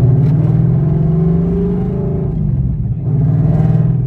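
Car engine and exhaust running with a low rumble; the engine note rises gently and falls back about two seconds in, then picks up again near the end.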